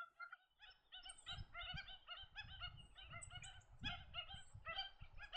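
White-headed stilts calling: a quick run of short, repeated calls, about four a second.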